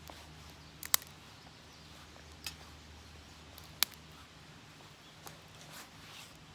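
A few sharp cracks of dry twigs or kindling, two loud ones about a second in and near four seconds, with smaller ones between, while a fire is being coaxed alight in a small twig-burning stove.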